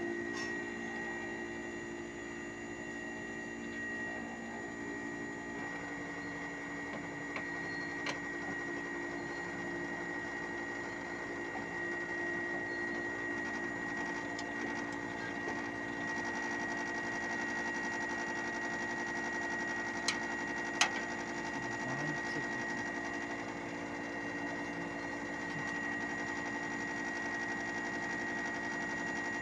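Outdoor unit of a Hitachi 1-ton split air conditioner running, a steady mechanical hum with a constant high whine over it: the abnormal noise being diagnosed. Two sharp clicks come about twenty seconds in.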